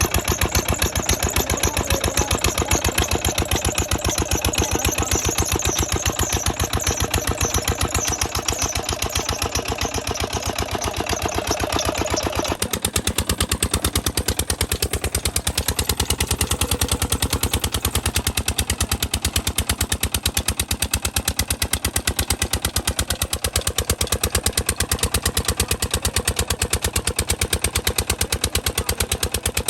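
Petter diesel engine running steadily, driving a small tubewell pump, with a fast, even knock of firing pulses. About twelve seconds in the sound changes abruptly as the hiss above the knocking drops away.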